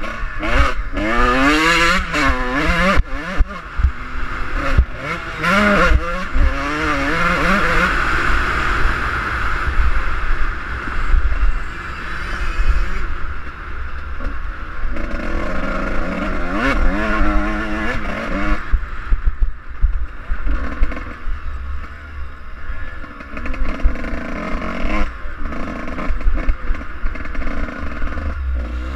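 Suzuki RM125 two-stroke motocross bike engine revving up and falling back again and again as it is ridden through the gears, with a rumble of wind on the microphone and occasional knocks and clatter.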